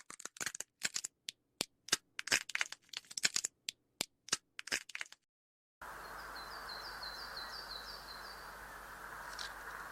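A run of sharp, irregular cracks and clicks for about five seconds, then a brief silence. After it comes steady outdoor background hiss, in which a small bird calls a quick series of about nine short falling notes, and one short sharp sound comes near the end.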